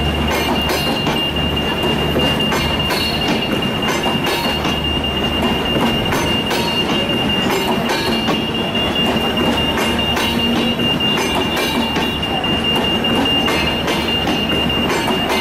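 Passenger train coaches rolling past on the rails, wheels clicking over the track with a steady high-pitched wheel squeal and a continuous rumble.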